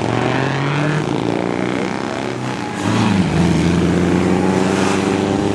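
Engines of vintage prewar racing cars running as the field moves off onto the track, with a louder engine note coming in about three seconds in.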